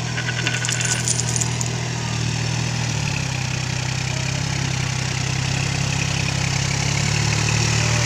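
Tractor engine running steadily at a low idle, its pitch shifting slightly about three seconds in. A brief rapid high rattle sounds over it in the first couple of seconds.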